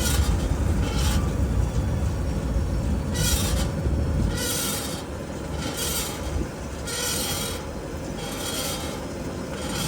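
Metal grinding from the rear passenger-side wheel of a 2022 Ford F-150 PowerBoost: a rasping scrape that repeats roughly every second or so over a low road rumble, the rumble dropping about four seconds in. The cause is a rear axle bolt that has broken free from the axle.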